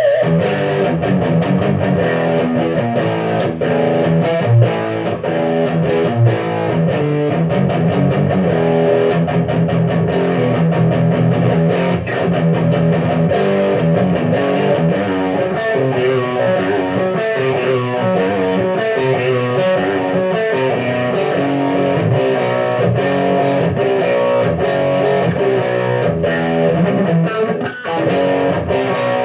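Electric guitar, a Fender HHH, played through a pedalboard into a Marshall AVT50 amplifier: an unbroken run of picked notes and chords, recorded by a phone in the room.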